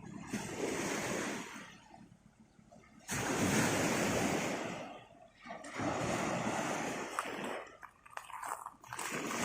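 Sea surf washing onto the shore in repeated surges, each swelling and then fading; four come in, the second starting suddenly about three seconds in and being the loudest.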